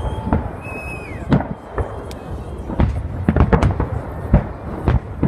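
Fireworks display: aerial shells bursting in an irregular barrage of booms and crackles, several a second, thickening in the second half.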